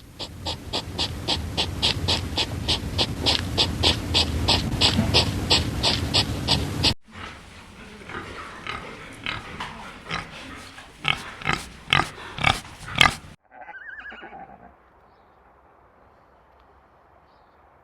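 A herbivore's calls repeated quickly, about three or four a second, then after a sudden cut a second series of sharper calls from a different recording; the calls stop a few seconds before the end.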